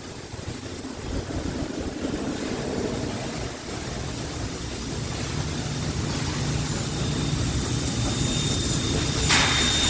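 59 class steam locomotive 5917 drawing near, its low rumble growing steadily louder. A thin, steady high tone comes in about seven seconds in, and a loud burst of steam hiss starts just before the end.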